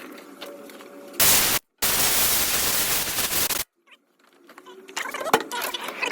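Two loud bursts of steady hiss, the second about two seconds long, each stopping abruptly, followed by scattered light clicks and clinks.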